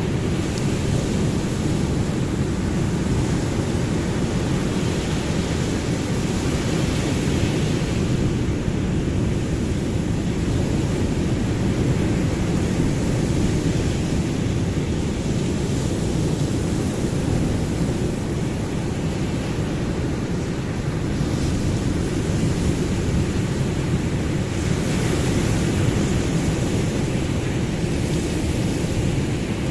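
Ocean waves washing on a shore: a constant low, rumbling wash, with gentle swells rising and falling.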